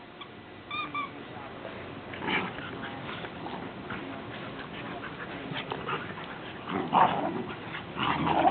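Puppies play-fighting: short whimpers and yips, with louder bursts of scuffling dog noise about two seconds in and again near the end. It is rough play, not a real fight.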